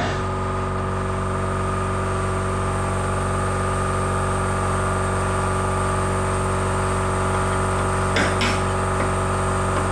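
Power tool motor running steadily at a constant pitch, with brief harsh bursts about eight seconds in.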